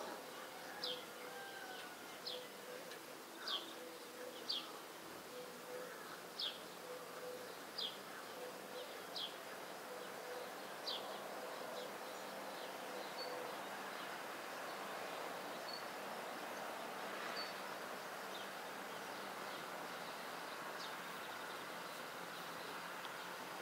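A bird's short, high chirps, each a quick downward slide, repeated about once a second and thinning out to a few scattered ones after about eleven seconds. A faint steady hum runs under the first half.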